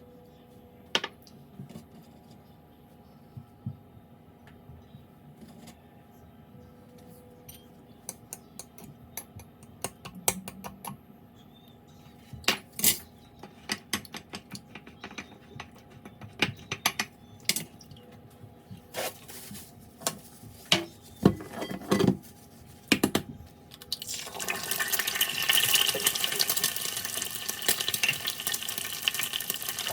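Scattered clinks and knocks of utensils against dishes and an iron pan, growing busier. About 24 seconds in, a steady sizzle of food frying in the hot pan begins. The whole sound runs at double speed.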